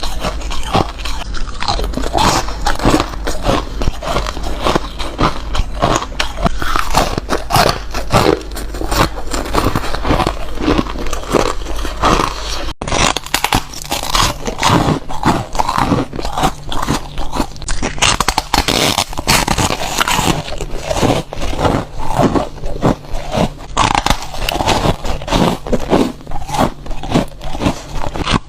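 Close-up biting and chewing of foam ice: continuous rapid crunches as the porous frozen ice breaks between the teeth, with a brief break about 13 seconds in.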